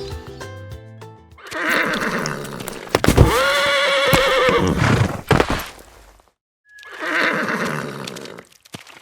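A horse whinnying: a breathy start runs into one long wavering call, and a second, breathier call follows after a brief silence. Music plays in the first second or so.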